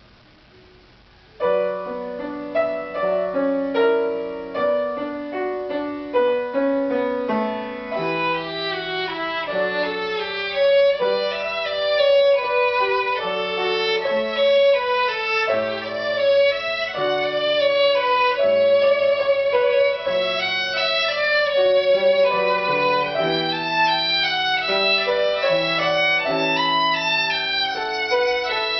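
Instrumental music led by a violin, playing a melody over lower accompanying notes; it begins about a second and a half in after near silence.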